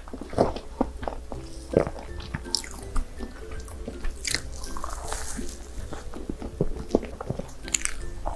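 Close-miked chewing and biting of castella cake with whipped cream: irregular wet mouth clicks, over soft background music with steady held notes.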